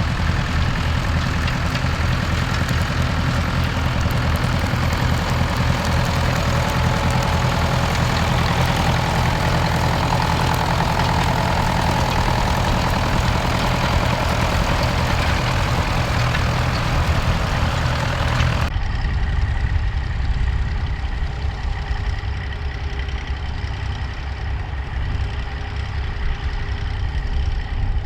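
Massey Ferguson tractor engine running steadily. About two-thirds of the way in, the sound changes abruptly: the high hiss drops away and the engine note carries on lower and steadier.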